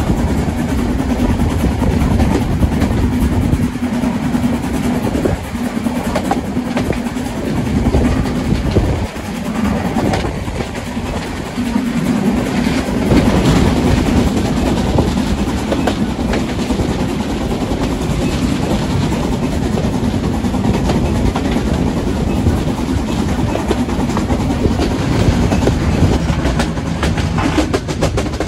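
Train running on rails, its wheels clicking over the rail joints above a steady low hum.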